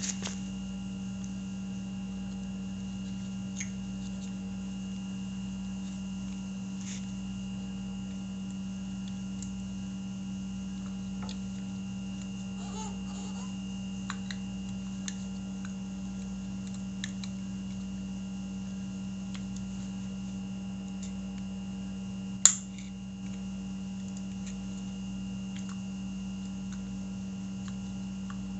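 Steady low electrical hum with a faint high whine, with scattered small clicks and taps and one sharp click about 22 seconds in.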